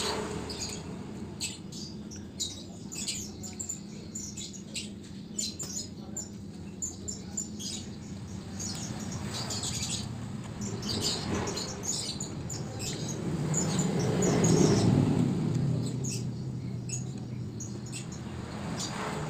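Close-up chewing and lip-smacking of a man eating rice and fried jengkol by hand: many short wet clicks and smacks over a low hum. The hum swells louder and fades about fourteen seconds in.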